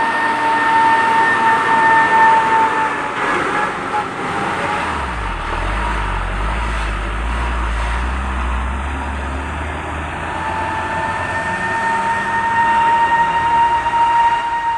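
Heavy truck labouring up a steep incline: engine and drivetrain noise with a steady high whine that fades after about three seconds and returns near the end. A deep low rumble swells in the middle.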